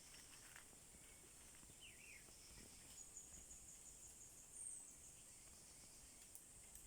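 Faint forest ambience: a steady high-pitched insect drone, with a few brief bird chirps, including a quick pair of falling notes and a short high call.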